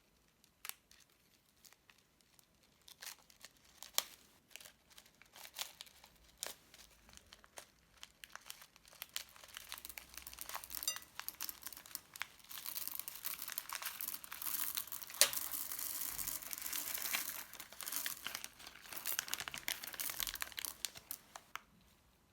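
Crunchy slime and plastic piping bags being handled, crinkling and crackling. At first there are scattered sharp crackles; from about nine seconds in the crackling becomes dense and steady, and it fades out near the end.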